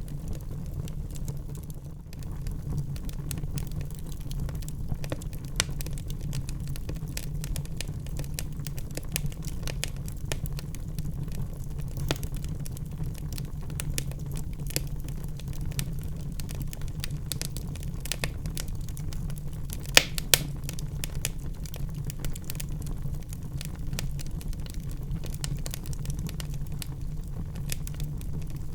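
Burning wood in a fireplace crackling, with many small irregular snaps over a steady low rumble of the flames, and two louder pops about twenty seconds in.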